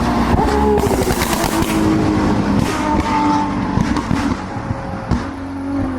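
High-performance supercar engine revving hard under acceleration, its pitch falling and rising as it goes through the gears, with sharp crackles from the exhaust.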